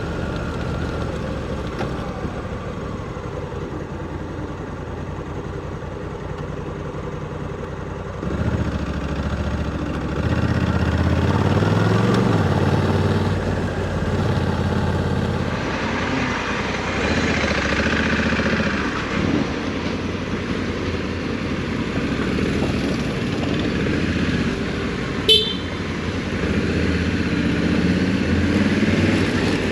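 Honda Africa Twin 1100's parallel-twin engine running at low speed, picking up revs about eight seconds in and again a couple of seconds later, then pulling on with gentle rises and falls in pitch. Near the end, a short, sharp high-pitched sound stands out briefly above the engine.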